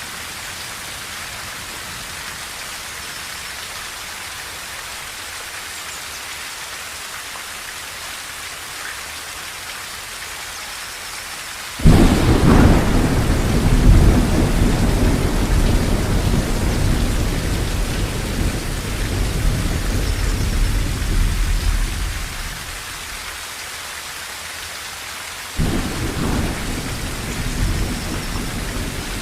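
Steady rain drumming on a tin roof. About twelve seconds in, a sudden loud thunderclap rolls into a low rumble that lasts about ten seconds, and a second thunderclap breaks in near the end.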